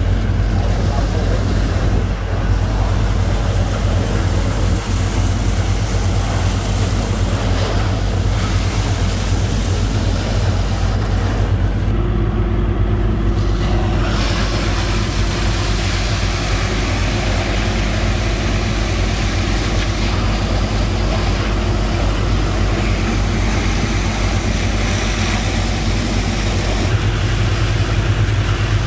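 Engine of a sand-pumping rig running steadily under load, pumping sand that carries many stones and bits of wood off a boat.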